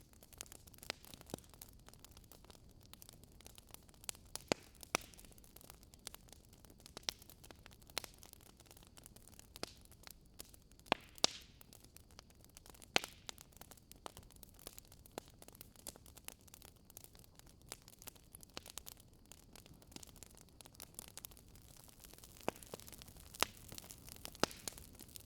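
Wood fire burning in a fireplace: irregular sharp crackles and pops from the burning logs over a soft, steady hiss.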